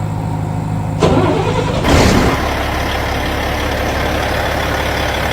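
Truck engine idling with a steady hum, then two loud surges about a second and two seconds in, settling into a steady rough running.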